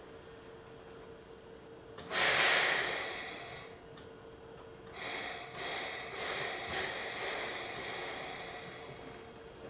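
Compressed air hissing out of the stopped electric train's pneumatic system, heard from inside the car under a steady hum. A sudden loud hiss comes about two seconds in and fades. A second, longer one starts about halfway through and dies away slowly.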